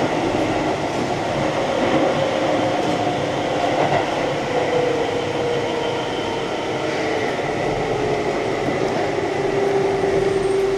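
Keihan electric train running along the line: a steady rumble and hiss of wheels on rail, with a faint motor whine that slowly falls in pitch.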